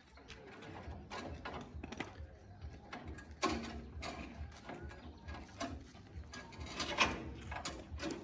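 Irregular metallic clicks and knocks from working machinery, over a steady low rumble.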